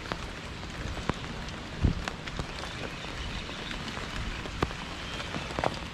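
Steady rain falling, with a few sharper drop taps and dull thumps scattered through it.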